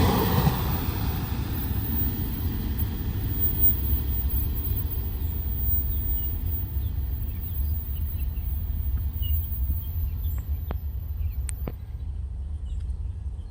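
Low, steady rumble of a diesel-hauled freight train slowly fading as it moves away, with faint bird chirps and two sharp clicks near the end.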